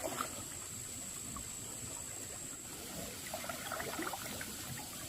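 Faint water trickling and sloshing, with a few small splashes in the second half, under a thin steady high-pitched tone.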